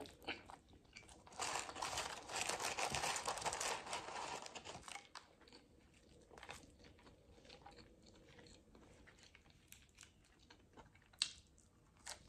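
Close-up chewing and crunching of a crispy fried chicken sandwich, densest for about three seconds starting a second in. After that come quieter chewing of French fries and small mouth clicks, with one sharp click near the end.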